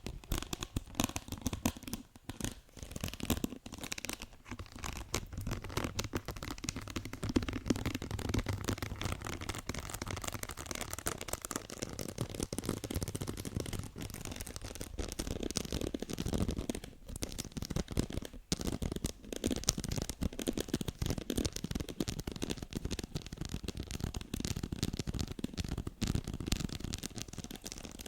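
Close-miked ASMR tapping and scratching on objects: a dense, fast run of taps and scratches, with a few brief breaks.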